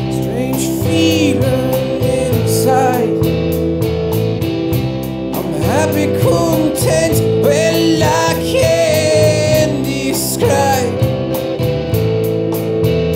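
Rock band playing: guitars and bass over a steady drum beat with even hi-hat ticks, and a lead melody that bends and slides in pitch through the middle, dropping away near the end.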